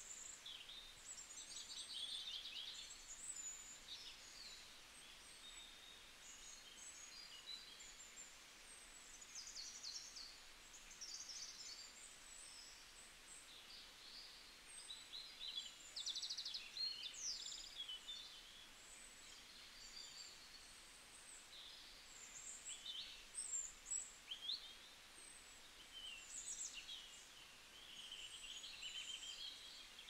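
Small birds chirping and calling, many short high chirps and trills overlapping in a continuous faint chorus over a light background hiss.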